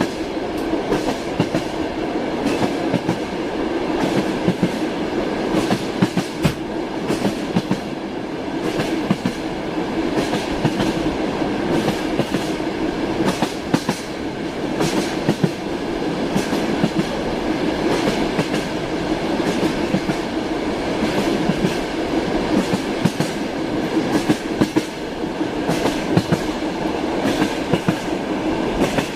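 Moving train's wheels clattering over rail joints, a steady rumble with repeated clicks and knocks and a constant tone underneath.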